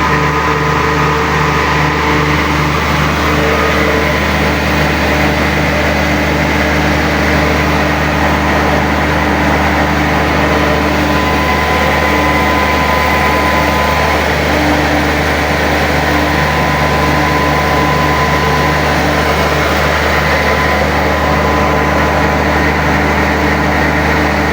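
Cummins L10 inline-six diesel engine running steadily at a constant speed.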